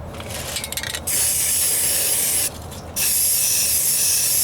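Aerosol spray can of primer spraying in two steady bursts, the first about a second and a half long, then a brief pause and a longer second burst.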